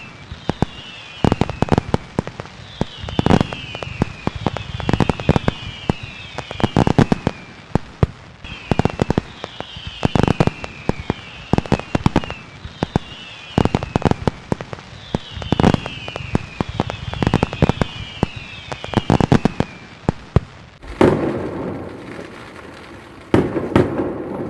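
Fireworks display: a rapid run of bangs and crackles, many with short whistles that fall in pitch. Near the end the bangs stop and a steady rushing noise comes in suddenly, twice.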